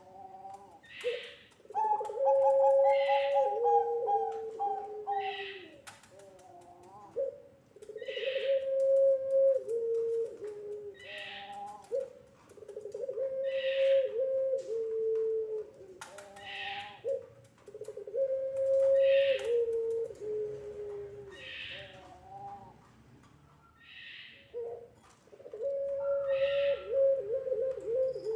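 Puter pelung (a domestic Barbary dove, Streptopelia risoria, bred for long calls) cooing over and over in long, drawn-out phrases, each lasting a couple of seconds. Shorter higher-pitched calls come between the coos.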